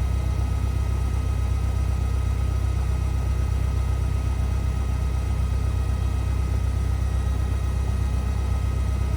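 Cessna 172R's four-cylinder piston engine running steadily in flight, heard from inside the cabin as an even low drone, with a faint steady high whine above it.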